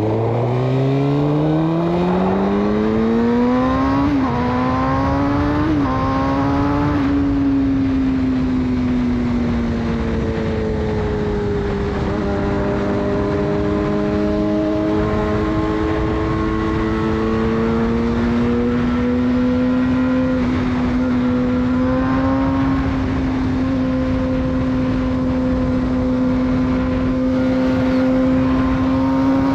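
Suzuki GSX-R 600's inline-four, with a de-catted full Yoshimura exhaust, pulling hard under full throttle. The pitch climbs steeply, with two quick upshifts about four and six seconds in. About seven seconds in the engine eases off, then settles into a steady cruise, its pitch slowly rising.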